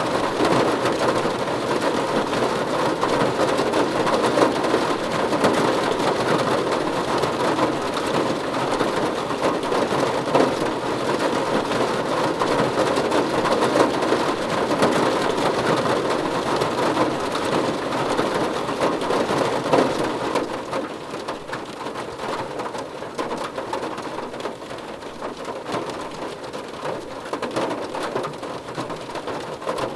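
Steady rain falling on a surface, a dense hiss that becomes somewhat quieter about twenty seconds in.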